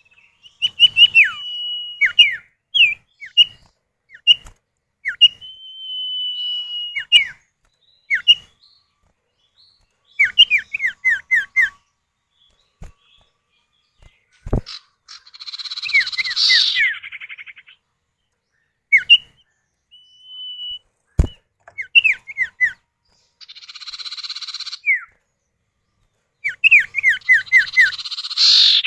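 Common ioras (sirtu) calling back and forth, male and female: long level whistles and quick runs of falling whistled notes. They are broken by three harsh, buzzy chatters, the loudest near the end, and a few sharp clicks.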